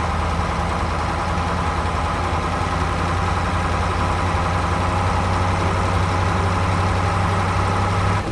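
Road roller's heavy engine idling steadily with a low, even hum, then cutting off at the end.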